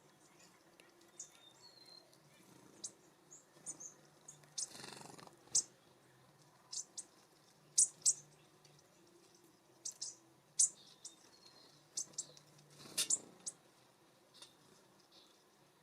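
Small songbirds giving scattered short, high-pitched chip calls, with two brief rustles about five and thirteen seconds in.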